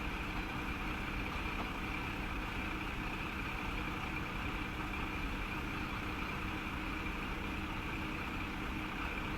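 Sanriku Railway 36-R type diesel railcar engine idling steadily, with a constant high-pitched tone running over it.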